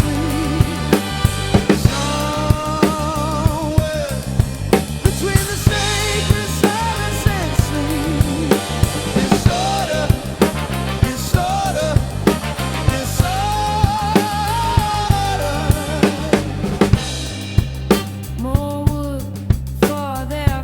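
Drum kit played over a backing song: steady kick and snare hits with rimshots, over a bass line and a wavering, vibrato melody.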